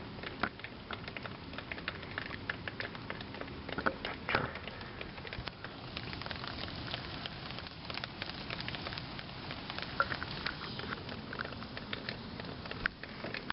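Steady rain falling, with many small drop impacts ticking irregularly on surfaces.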